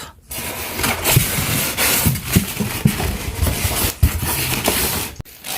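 Rustling of packaging and parts being handled, with scattered light knocks and clicks.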